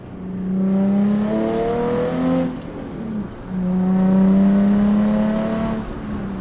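Nissan 350Z's V6 through a Tomei exhaust, revved and held high twice, each rev a couple of seconds long with its pitch creeping upward. There is a short drop between the two revs.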